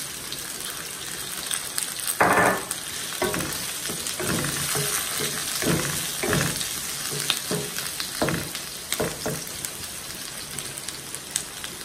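Chopped garlic, onion, bell pepper and ginger sizzling in hot oil in a wok, being sautéed. From about two seconds in, a wooden spatula stirs and scrapes them in a run of short strokes, which ease off near the end.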